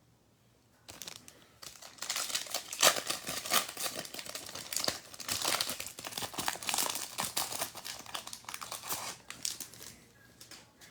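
Foil trading-card pack wrapper being torn open and crinkled by hand, a dense crackling that starts about a second in and dies away near the end.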